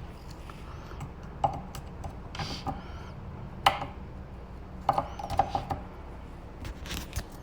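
Scattered light clicks and knocks of small parts and connectors being handled on a model-engine setup, a few of them a second or so apart, over a faint low hum.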